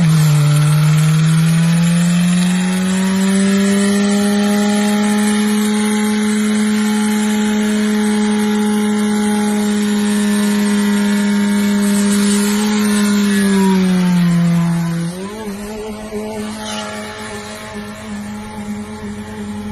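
An engine held at steady high revs, its note dipping briefly near the start and again about fourteen seconds in before climbing back. It is quieter over the last few seconds.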